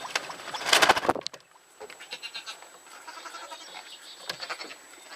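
A burst of rustling and scuffing in about the first second, then soft, wavering animal calls.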